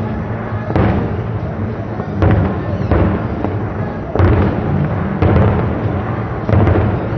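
Fireworks display: aerial shells bursting, about six booms a second or so apart, each trailing off in a rumble.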